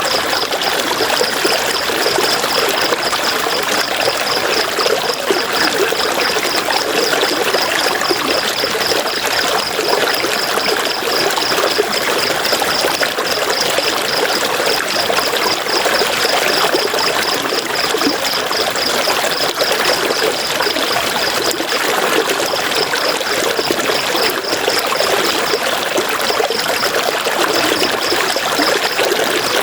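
River water flowing and splashing steadily. Over it comes a high, even pulsing chirp several times a second, which breaks off a few times in the last third.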